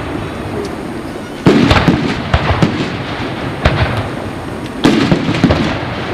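Aerial fireworks bursting overhead: a sharp bang about one and a half seconds in, then a run of further bangs over a steady crackle.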